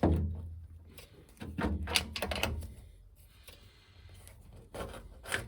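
Knocks, clicks and dull clunks of hard plastic as a washing machine's drain pump filter is worked loose and pulled out of its housing. The loudest clunks come at the start and about two seconds in.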